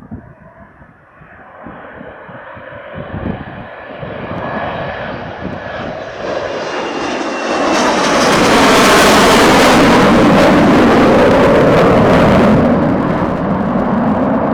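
Panavia Tornado GR4's twin RB199 turbofan engines as the jet approaches and passes: a whistle growing louder, then a loud rumble from about eight seconds in that eases off near the end. Wind buffets the microphone at first.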